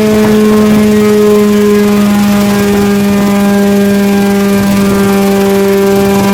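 Homemade coaxial helicopter's engine and rotors running at a steady speed, a loud even drone holding one pitch throughout.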